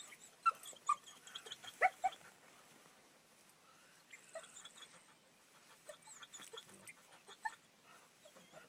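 Fourteen-week-old Labrador puppy whining: a few short, high calls in the first two seconds, then only faint scattered ones.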